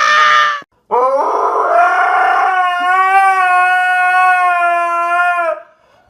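A dog howling: a short high cry, then one long, steady howl of about five seconds that falls away near the end.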